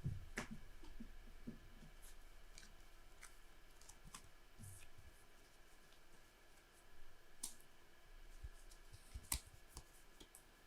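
Trading cards being handled and set down on the table: faint, scattered clicks and taps, the sharpest near the end, over a quiet room.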